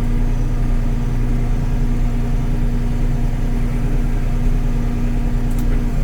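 Kubota L3560 tractor's diesel engine running steadily at an even speed while the tractor is eased forward.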